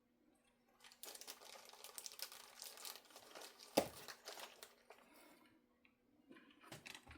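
Crinkling and rustling as small guitar hardware parts are handled, with one sharp knock about four seconds in and a few light clicks near the end.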